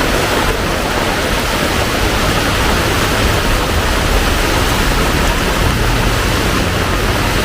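Heavy tropical rain pouring down steadily, a dense, even hiss with no breaks.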